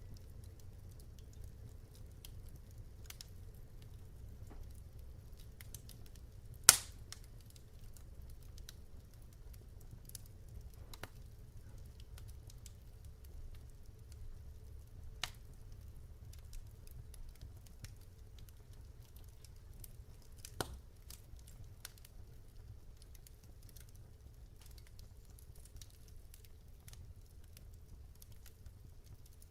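Wood fire in a fireplace crackling: scattered small snaps over a steady low rumble of the flames, with one loud pop about seven seconds in and two smaller pops later.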